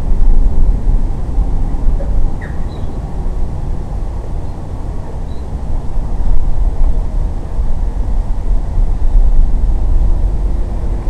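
Heavy wind noise buffeting the microphone in uneven gusts.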